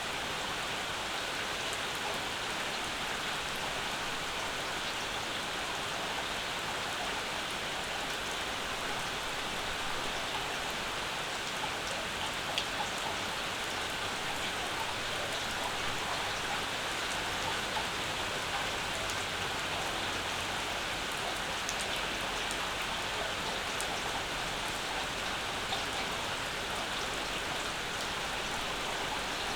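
Steady rain falling and pattering on surfaces, with the odd louder drop ticking out.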